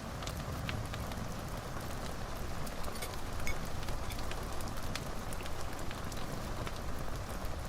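Fireplace fire crackling: scattered sharp pops over a steady hiss and low rumble.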